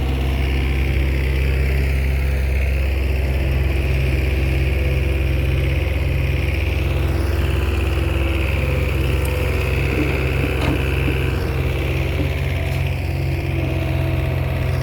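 Komatsu bulldozer's diesel engine running steadily at working speed, with a deep, even drone and a light knock about two thirds of the way through.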